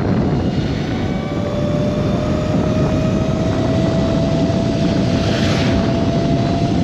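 Harley-Davidson LiveWire electric motorcycle riding, its motor whining on one steady tone that rises slowly as the bike gathers speed, under heavy wind and road noise.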